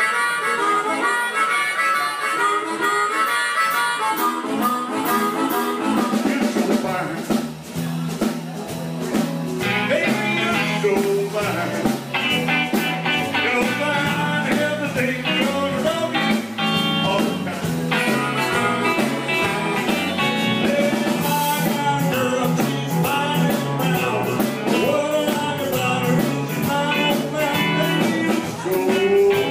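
Live blues band playing with harmonica to the fore; the full band, with bass and drums, comes in about six seconds in.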